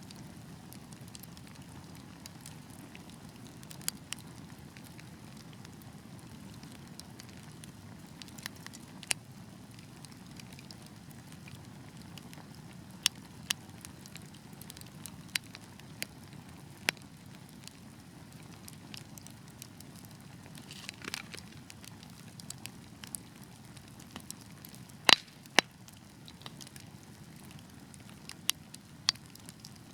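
Wood fire burning with a steady low rumble and sharp, irregular crackles and pops from the burning logs, the loudest pair of pops a little past halfway through.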